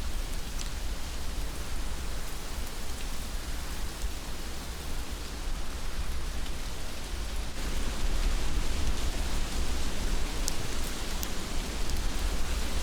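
Heavy rain falling steadily, with a few sharper drop hits and a low rumble underneath; the rain grows a little louder about halfway through.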